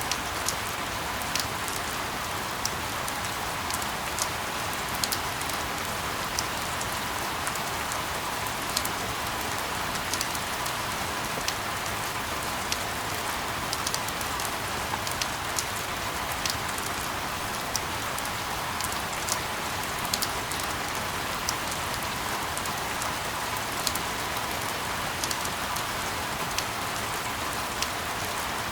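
Steady rain falling, with many sharp individual drops ticking on a surface throughout.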